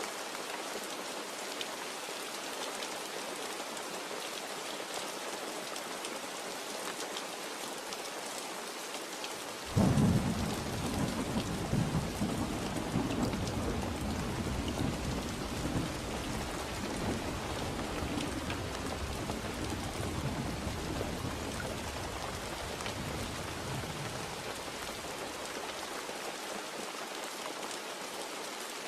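Steady rain falling, with a thunderclap breaking sharply about ten seconds in and rolling on as a low rumble that fades away over the next dozen seconds or so.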